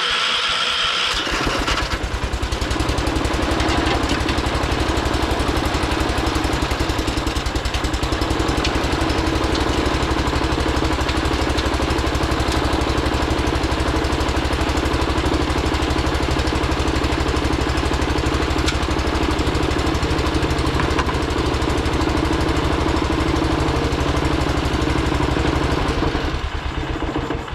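John Deere 212 garden tractor's single-cylinder Kohler engine running steadily after starting, a little unhappy and not perfect, in need of a carburetor adjustment. It dies away near the end.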